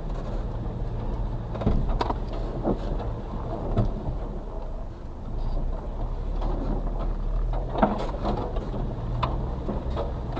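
Suzuki Carry kei truck's 660cc engine running steadily at low revs, heard from inside the cab, with several knocks and rattles as the truck rolls over rough ground.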